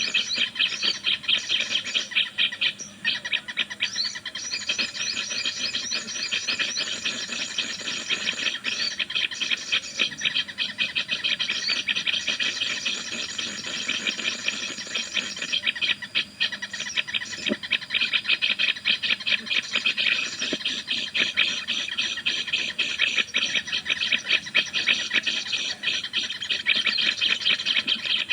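Small birds chirping: a dense, continuous stream of rapid high chips and twitters with no break.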